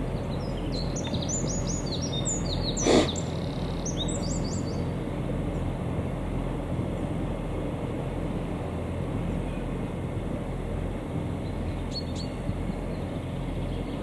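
Steady low rumble of a loaded narrow-gauge peat railway train running away along the track, with songbirds chirping in quick bursts during the first few seconds and again near the end. A single sharp knock about three seconds in is the loudest sound.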